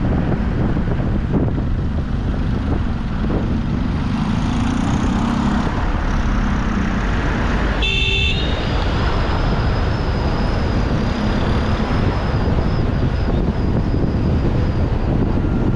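Steady rumble of road and wind noise from a car on the move, with one short car horn honk about halfway through.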